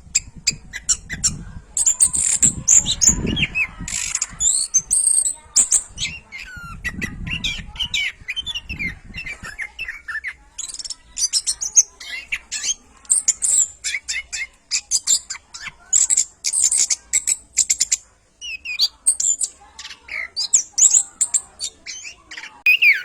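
Orange-headed thrush singing a fast, varied song of chirps, whistles and gliding notes in quick phrases broken by short pauses, with a low rumble beneath the song in the first half.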